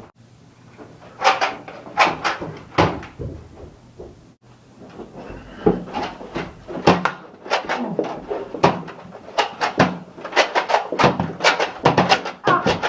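Nerf foam-dart blasters being primed and fired in a fight: a string of sharp plastic clacks and knocks, a few spaced out at first and then coming thick and fast through the second half.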